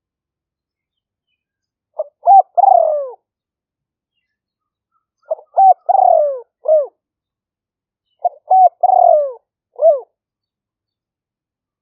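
Spotted dove cooing: three call phrases about three seconds apart, beginning about two seconds in. Each phrase is a few short clipped notes, a longer falling coo and a short closing note, with complete silence between phrases.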